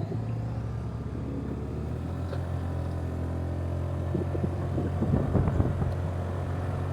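Honda Navi's small single-cylinder engine running at a steady, unchanging pitch, with some rumble mixed in.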